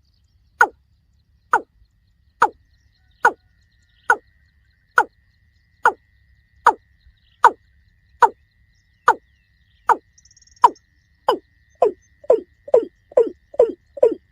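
Watercock calling: a steady series of short notes, each sliding downward in pitch, a little more than one a second, quickening into a rapid run near the end.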